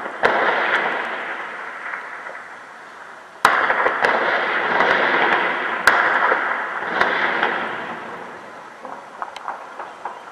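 Shelling heard across a city: four sharp blasts, each trailing off in a long rolling echo, with a cluster of fainter cracks near the end.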